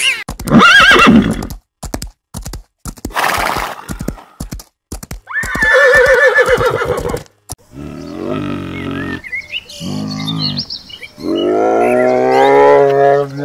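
A sequence of animal calls. First come dolphin whistles and clicks. About five seconds in, a horse gives a wavering high whinny. From about eight seconds to the end, a brown bear makes low, drawn-out calls.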